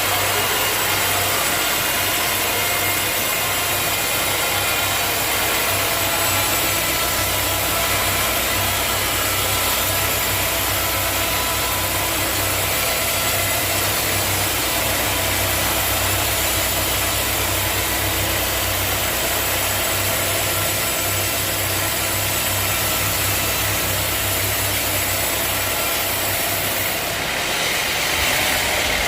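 Sawmill machinery running steadily: a constant low engine-like hum under a dense high-pitched hiss. The low hum changes near the end.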